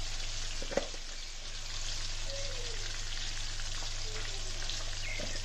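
Chopped tomatoes frying in oil in a cast-iron karahi, a steady sizzle, with one light tap just under a second in.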